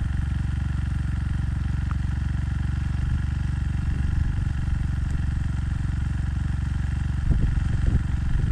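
Motorcycle engine running steadily at low revs, with a few louder knocks and rattles about seven seconds in.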